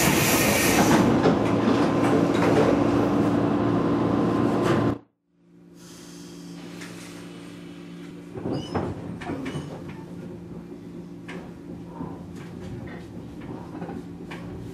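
Inside a 115-series electric train standing at a station: loud noise with a burst of air hiss as the doors close, cutting off suddenly about five seconds in. After that, a quieter steady hum with scattered clicks and knocks as the train starts to pull away.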